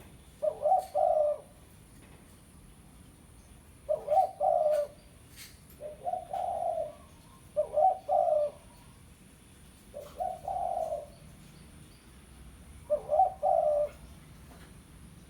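Spotted dove cooing: about six short, low coo phrases, spaced a second or two apart.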